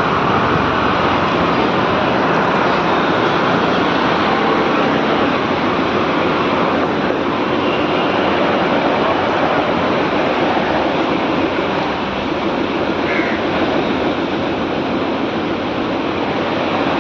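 Steady, loud noise of a vehicle in motion, a mix of road, wind and engine noise without clear breaks.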